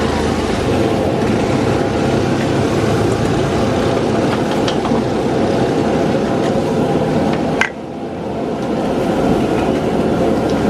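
Steady roar of a street stall's high-flame wok burner, with a few sharp metal clicks. About three-quarters of the way through a sharp click comes, the roar drops briefly and then builds back up.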